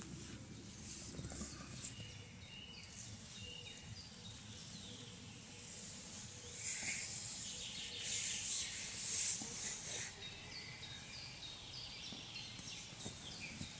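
Small birds chirping and twittering in short high notes, louder for a few seconds past the middle, over faint steady background noise.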